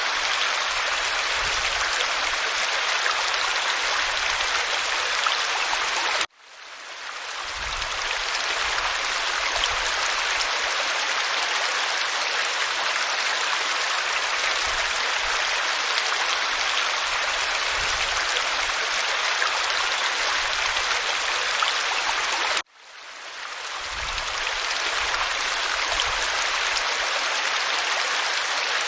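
Waterfall rushing over rock, a steady hiss of falling water. It cuts out abruptly twice, about six seconds in and again near twenty-three seconds, each time fading back up over a second or two.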